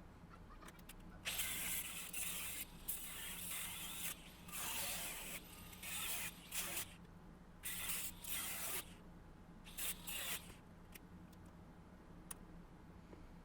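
A power tool cutting or grinding car-body sheet metal, run in about six short bursts, a second or so each, with the whine falling as the tool spins down between bursts.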